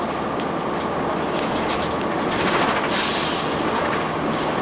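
Inside a 2002 Blue Bird CS transit bus under way: its Cummins ISL9 diesel running steadily with body rattles, and a short hiss of air from the bus's air system about three seconds in.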